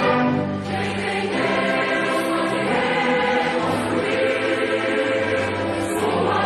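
Choral music: a choir singing sustained chords, with the held notes changing every second or so.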